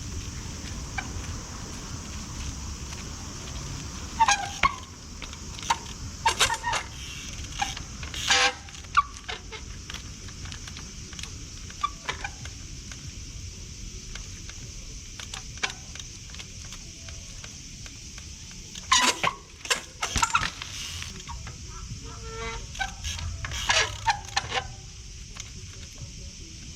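Trials bike being ridden in the rain: groups of sharp knocks and short squeaks as it hops and lands, a few seconds in, again around two-thirds of the way through, and once more near the end, over a steady hiss of rain.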